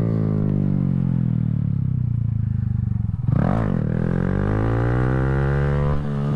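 2020 Honda Grom's 125 cc single-cylinder engine under way. Its revs fall for about three seconds, then a brief sharp rev with a clatter a little past three seconds, after which the revs climb and level off, dipping briefly near the end.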